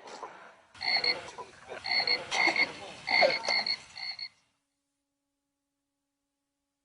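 Frogs croaking: about four repeated calls roughly a second apart over a rustling background, stopping abruptly partway through.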